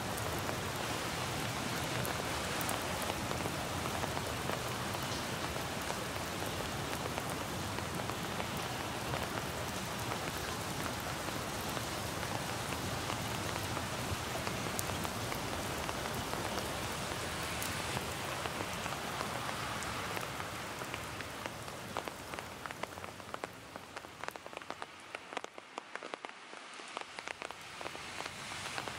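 Steady rain falling as a dense, even hiss of drops; about two-thirds of the way through it eases to a lighter, sparser patter of separate drops.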